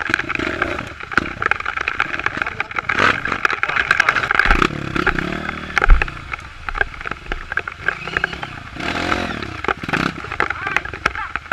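Dirt bike's single-cylinder engine running under load as it rides a rough trail, revving up about four and a half seconds in and again near nine seconds. Many rattles and knocks from the bike's chassis run through it, with one heavy thump about six seconds in.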